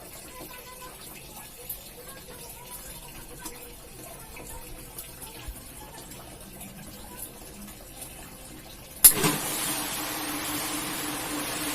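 A few faint clicks and knocks, then about nine seconds in a sharp click and a steady rush of water starts, with a low hum underneath.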